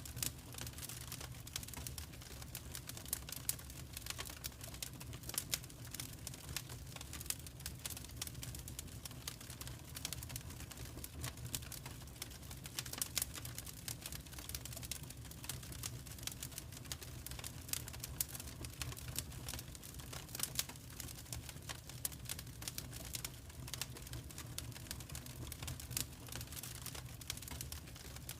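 Wood fire crackling: dense, irregular small pops and snaps over a low, steady rumble.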